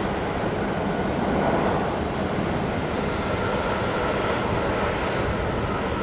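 Jet airliner engines, a steady dense roar with a faint high whine that comes in about halfway through.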